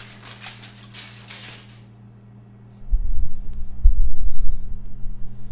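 Crinkling rustle, as of aluminium foil being pulled back, fading out about two seconds in. From about three seconds in, a loud low rumble on the microphone takes over, over a faint steady hum.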